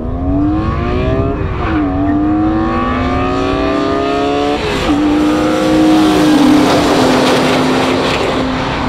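BMW M3 E46 straight-six and Porsche Cayman S flat-six at full throttle in a drag race. The engines rev up, drop in pitch at upshifts about two and five seconds in, and climb again. Tyre and wind noise swells as the cars pass.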